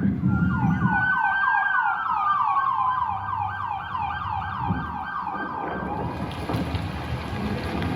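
Emergency vehicle sirens: one on a fast yelp of about four falling sweeps a second, another on a slower wail that rises then falls. About five and a half seconds in they fade and a steady rushing noise takes over.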